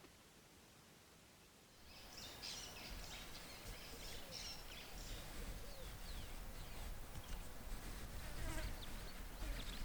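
Near silence, then about two seconds in, outdoor natural ambience starts: many short bird chirps and insect buzzing over a low rumble.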